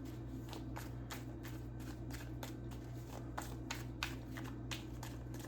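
Tarot cards being shuffled and handled by hand: a run of short, irregular card clicks and flicks, a few each second, over a steady low hum.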